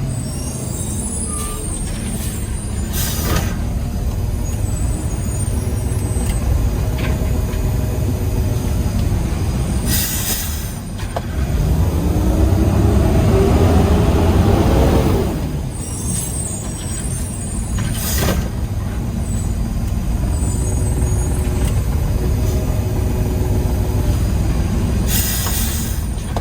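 Garbage truck's diesel engine running, revving up for about three seconds near the middle. Short hisses from the air brakes cut in four times, roughly every seven seconds.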